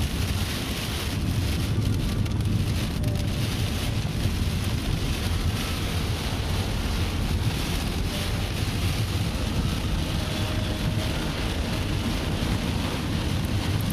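Steady rain and wind noise on a storm-chase vehicle, with a constant low rumble of the vehicle underneath.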